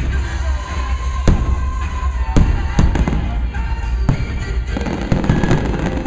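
Fireworks going off with sharp bangs about once a second, then a rapid run of crackling from about five seconds in, over music playing.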